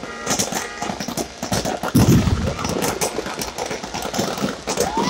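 Fireworks going off in rapid succession, a fast run of sharp bangs and crackles, with a heavier low boom about two seconds in.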